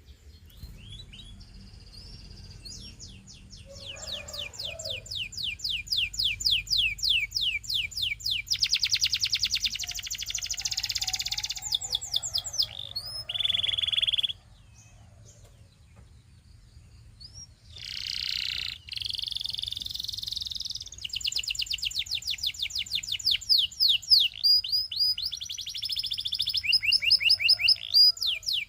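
Domestic canary singing in long, fast trills and rolls of rapidly repeated high notes, with a break of a few seconds about halfway through before it resumes.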